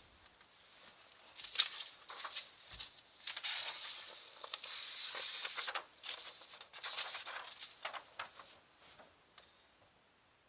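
A drawing tool scratching across paper in a series of short and longer strokes, with a few light taps, starting about a second and a half in.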